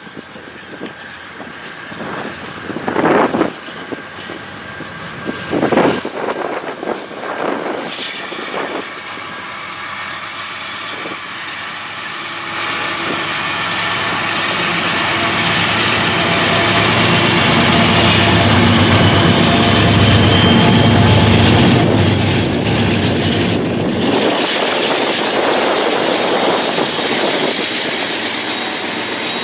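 A Norfolk Southern train with diesel locomotives approaches and passes. It builds from about twelve seconds in to its loudest around twenty seconds, with a deep engine rumble and faint high wheel tones, then eases slightly. Two short loud bursts of noise come a few seconds before it.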